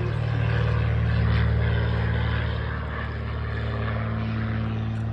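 A light propeller plane's piston engine running with a steady drone. It swells a little about a second in, then eases off slightly.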